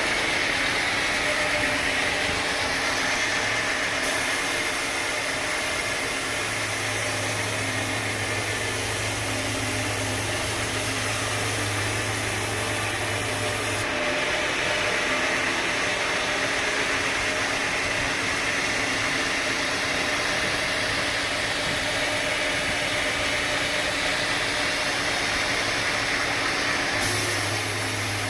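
Sawmill machinery running steadily: a continuous mechanical drone and hiss, with a low hum that comes in and drops out and the tone changing abruptly a few times.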